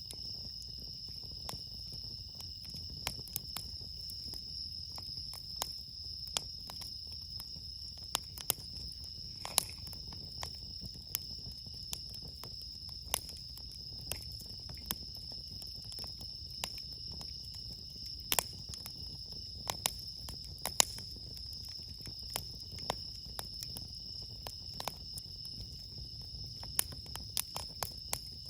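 Late-summer crickets keeping up a steady high-pitched chirring, with irregular sharp crackles and pops from a burning wood campfire over a low rumble.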